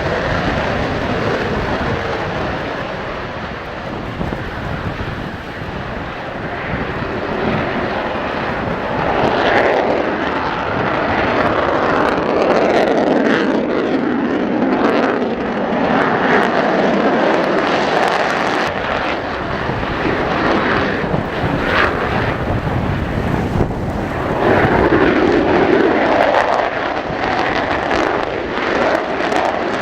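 Eurofighter Typhoon jet fighters taking off one after another, loud jet noise swelling and easing several times as each one passes. Behind it runs the steady engine blast of an Airbus A330 MRTT tanker holding nearby.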